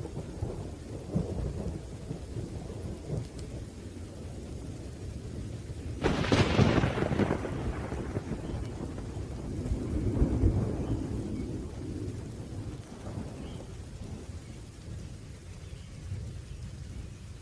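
Thunderstorm: low rolling thunder over steady rain, with a sharp thunderclap about six seconds in that rumbles away, and another swell of rumbling a few seconds later.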